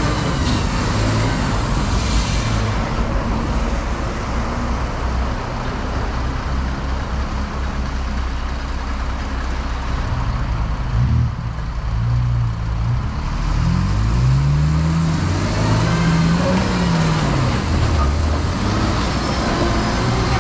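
Vehicle engines straining under load as a Toyota Bundera 4WD tries to tow a bogged truck free. In the second half the revs rise and fall several times.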